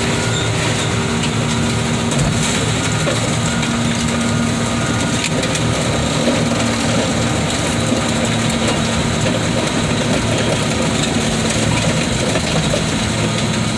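Heavy equipment engine running steadily at a car-crushing site, with a few faint knocks.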